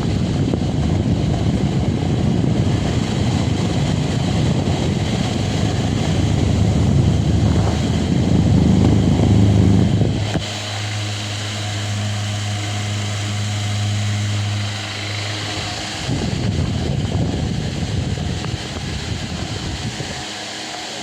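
Delta Gold 50 cm electric fan running, its airflow rushing and buffeting the microphone. For about six seconds midway the rush drops back and a steady low motor hum comes through clearly, then the rushing returns.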